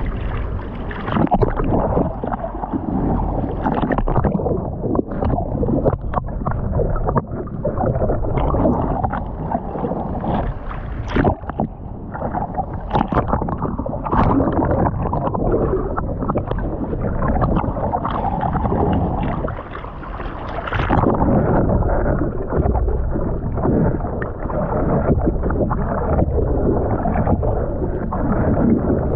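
Ocean water splashing and churning close around the microphone while surfing, with irregular sharp splashes and some wind on the microphone.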